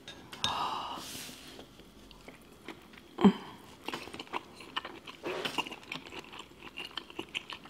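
Close-miked chewing of a large saucy mouthful of seafood boil crab and shrimp: soft wet mouth sounds with scattered small clicks, and one sharp, louder click about three seconds in.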